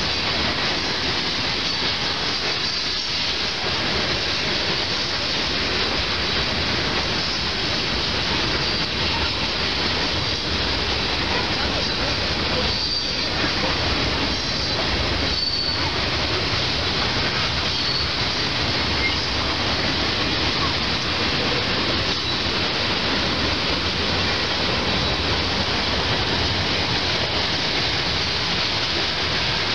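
Freight train cars, covered hoppers and boxcars, rolling steadily across a steel girder bridge: a continuous rumble and rattle of wheels on rail. Faint, brief high wheel squeals come about halfway through.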